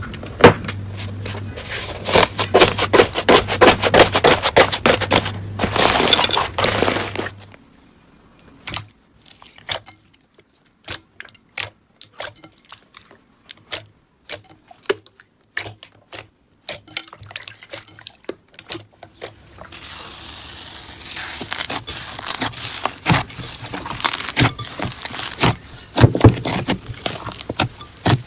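Slime being squeezed and poked by hand, giving dense crackling clicks and pops. A quieter stretch of scattered single pops runs through the middle, and the dense crackling returns for the last several seconds.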